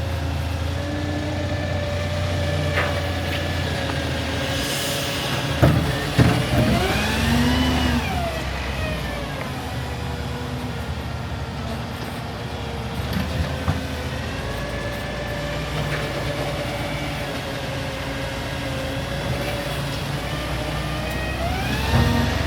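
Garbage truck's diesel engine running steadily, revving up and back down about six seconds in and rising again near the end. A short hiss comes just before the first rev, and two sharp knocks come with it.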